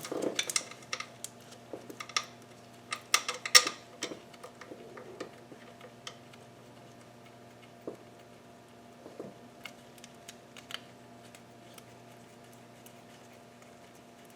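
Irregular small clicks and clinks of hand tools and bolts while the intake manifold bolts are being worked, coming thick and fast over the first four seconds or so and then only now and then. A faint steady hum runs underneath.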